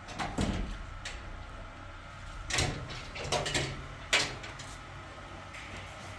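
A handful of separate knocks and clatters over a low steady background, the sharpest about four seconds in.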